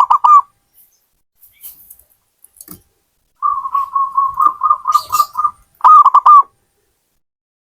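Zebra dove (perkutut) cooing: the end of a phrase at the start, a rapid run of short coos for about two seconds past the middle, then a phrase of three curved coos. A few faint clicks come between the phrases early on.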